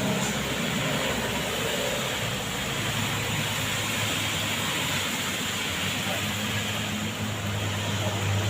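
Road traffic in the rain: a steady hiss of tyres on the wet road and rain, under the low drone of a passing vehicle's engine that grows stronger about halfway through.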